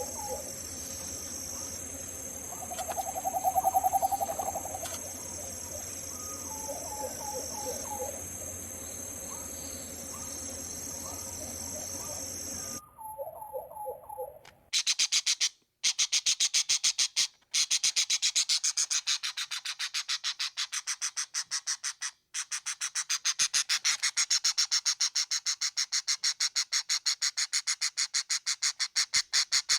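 Tropical forest bird recording. For about the first half, a steady high insect drone sits under repeated low hooting calls, loudest about 3 to 4 seconds in. After an abrupt cut about halfway through, a loud, very rapid run of sharp, high chattering bird notes takes over and briefly drops out a few times.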